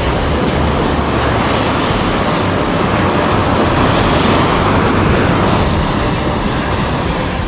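Steady roar of ocean surf and wind, swelling for a second or two around the middle as a wave breaks and washes in.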